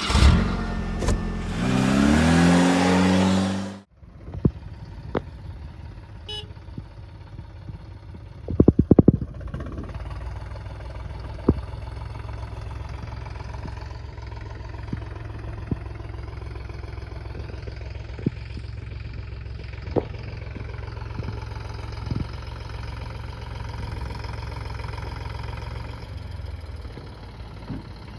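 Loud noisy sound with a rising pitch for about four seconds that cuts off sharply, then a tractor's diesel engine running steadily, with scattered knocks and a short loud clatter about nine seconds in.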